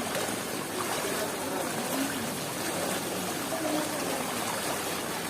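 Steady heavy rain with running water trickling: an even, unbroken wash of noise.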